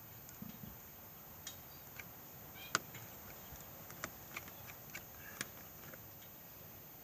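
Scattered light clicks and taps of tools and parts being handled during a motorcycle oil change, with one sharper knock about three seconds in.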